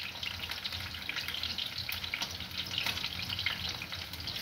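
Food frying in a hot pan: a steady crackling sizzle made of many small pops.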